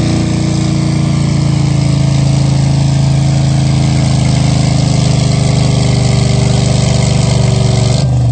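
Farm tractor engine running steadily and loudly under load during a tractor pull, its pitch nearly constant; the higher part of the sound drops away abruptly near the end.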